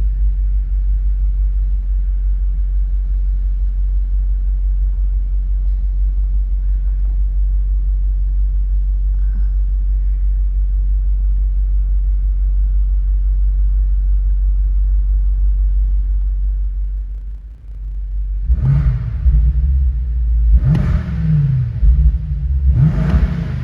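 The BMW M8's twin-turbo 4.4L V8 idling with a steady low rumble. After a brief drop, it is revved three times, about two seconds apart, near the end.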